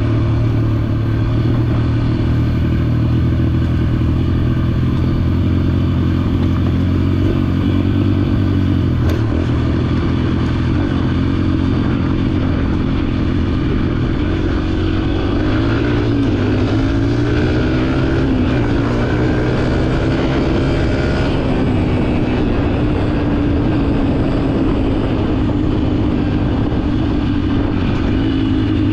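Dirt bike engine running while riding, steady at first, then changing pitch as the throttle is worked through the middle of the stretch.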